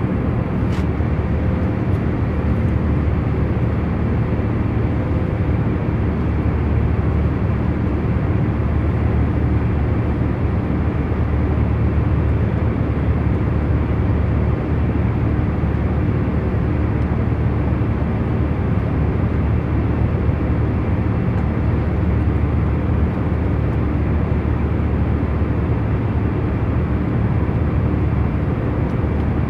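Airliner cabin noise in cruise: a steady, unchanging hum and rush of the aircraft in flight, heaviest in the low end, with a few faint steady tones under it.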